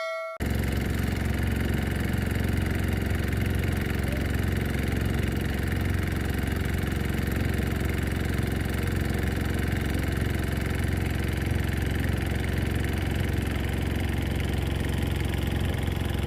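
A small engine running steadily at a constant speed. It cuts in abruptly just after the start and holds the same pitch throughout.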